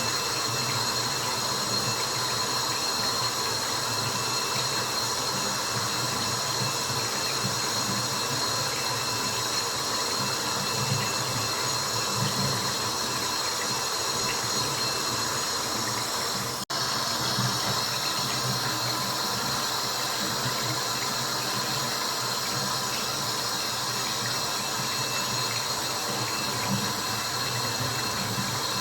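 Steady water noise, a dense even rush with faint steady tones in it, played as sleep white noise. It cuts out for an instant about 17 seconds in.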